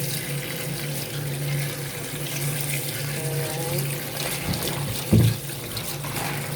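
Kitchen tap running into a sink while leafy greens are rinsed leaf by leaf, with a steady low hum underneath. A single sharp knock about five seconds in.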